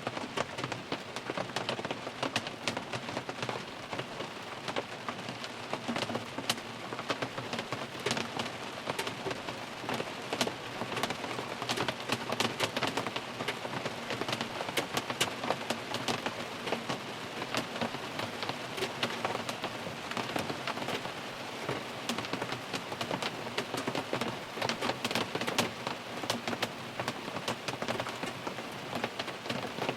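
Steady rain falling on a car's roof and windows, heard from inside the cabin, with many distinct drops striking sharply over the constant patter.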